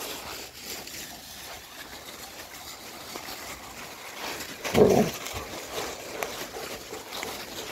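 A dog gives one short, loud bark about five seconds in, over soft rustling and scuffling of movement on the forest floor.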